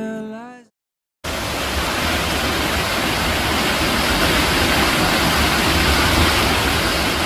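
Waterfall: a steady, dense rush of falling water that cuts in sharply about a second in, just after a song with a singing voice fades out.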